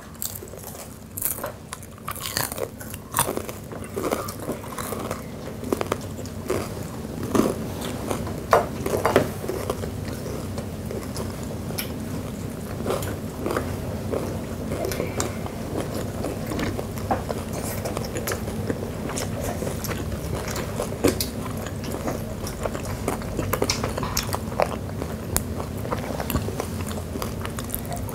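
Several people biting and chewing crispy deep-fried chicken gizzards with thin batter, close to the microphone: many sharp, irregular crunches and wet chewing, over a faint steady low hum.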